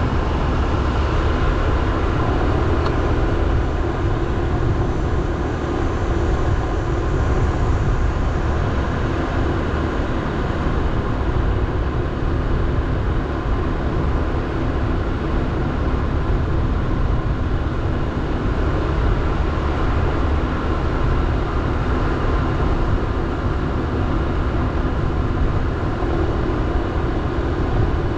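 Motorbike engine running steadily while riding, with a constant rush of road and wind noise.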